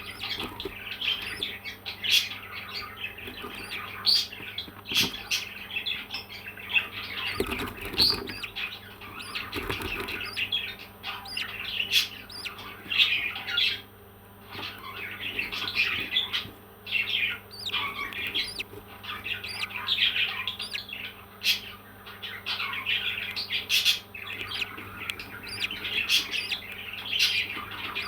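Pet parrots chirping and squawking almost without pause, with a few sharp clicks.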